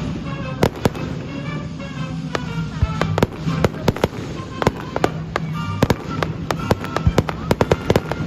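Fireworks going off in rapid, irregular succession: many sharp bangs and pops close together, with music playing underneath.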